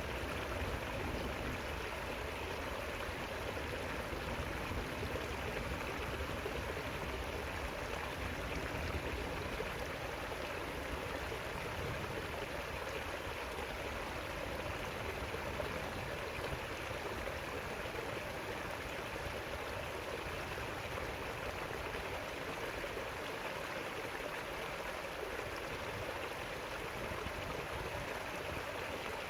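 River water flowing and rippling over rocks, a steady even rush with no breaks.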